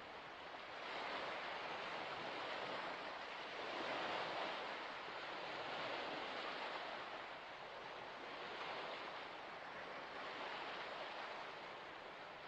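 Waves on water washing in, a steady rushing hiss that swells and eases every two to three seconds.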